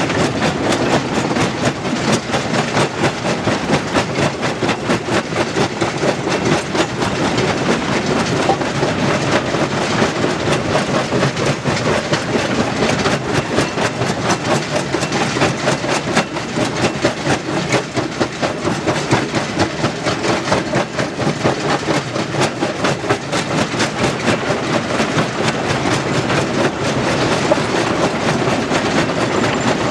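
Stone crusher running, a continuous dense rattle and clatter of rock being broken and tumbling through the machine.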